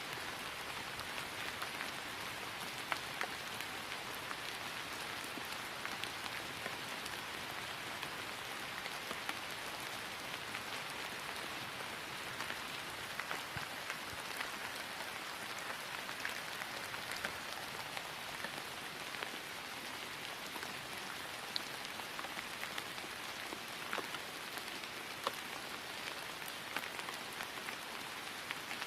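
Steady rain falling on grass, an even patter with scattered sharper ticks of individual drops.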